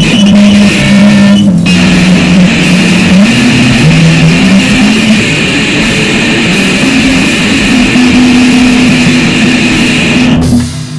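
Loud, heavily distorted music: sustained low notes step between a few pitches under a harsh, steady high overtone. It cuts off abruptly near the end.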